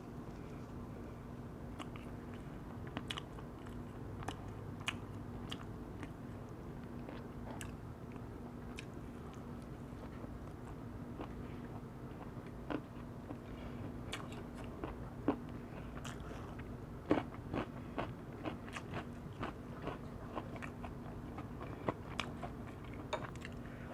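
Close-up eating sounds of a person biting and chewing wood-fired roast chicken: wet mouth clicks and small crunches, sparse at first and coming thick and fast in the second half. A steady low hum runs underneath.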